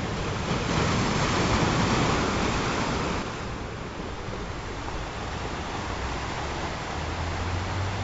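Ocean surf: waves washing and breaking in a steady rush, swelling louder in the first few seconds and easing off about three seconds in.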